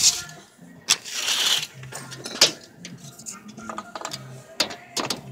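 Steel tape measure being pulled out and handled, giving scattered sharp clicks and knocks with a brief hiss about a second in.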